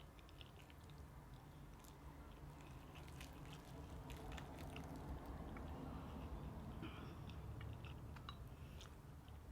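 Close-up chewing of crunchy fried chicken: a scatter of soft crackles and clicks from the crisp coating, busiest a couple of seconds in.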